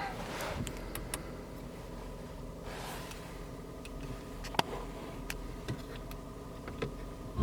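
A few faint clicks and taps, scattered at irregular intervals, of hands on a car's interior controls, over a low steady hum inside the cabin.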